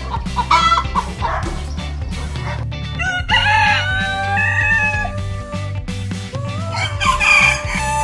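Rooster crowing twice, a long cock-a-doodle-doo about three seconds in and another near the end, after a few short hen clucks, over background music.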